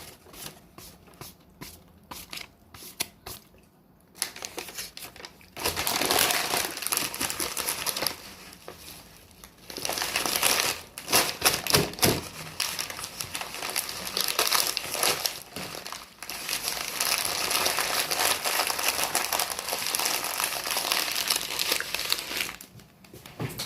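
Sandwich wrapping crinkling and crumpling as it is handled, in long stretches of dense crackling. A few scattered clicks come in the first few seconds.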